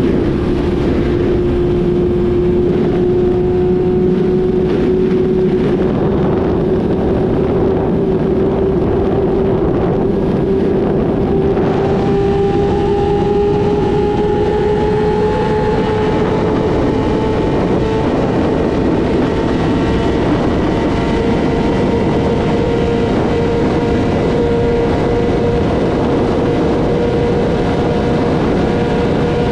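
Yamaha YZF-R6 inline-four with a full-system exhaust running at steady high revs, its pitch climbing slowly and evenly. Wind noise runs underneath.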